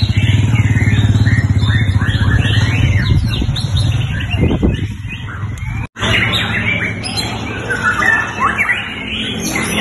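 White-rumped shamas (murai batu) singing fast, varied whistled phrases of rising and falling notes, as at a songbird contest, over a low pulsing hum that fades out after about four seconds. The sound breaks off briefly near the middle.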